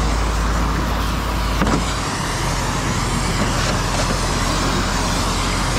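Steady engine and road noise from a vehicle driving, with a strong low rumble.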